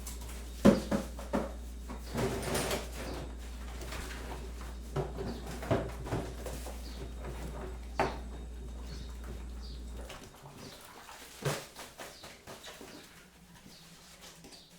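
Kitchen handling sounds: scattered knocks, clicks and clinks of utensils and crockery, a few sharp ones standing out, over a steady low hum that cuts off about ten seconds in.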